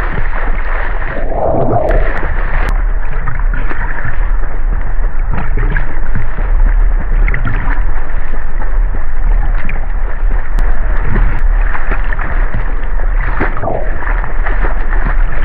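Sea water splashing and sloshing in a steady rush of noise, with a constant low rumble of wind on the microphone.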